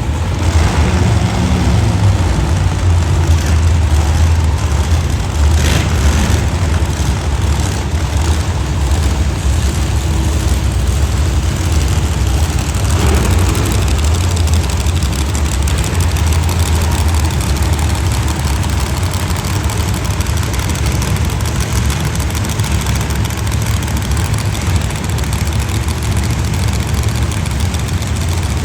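Monster truck engine running steadily at a low, loud idle.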